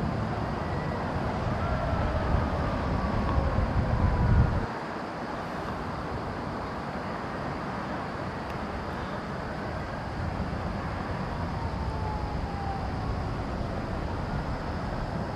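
Steady low rumble of distant vehicle traffic, louder for the first four and a half seconds and then dropping suddenly, with a few faint falling tones.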